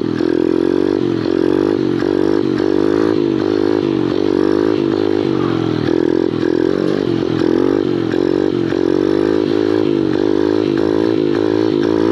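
Kawasaki pit bike's small single-cylinder engine revving during a wheelie, its pitch rising and dipping again and again as the throttle is worked.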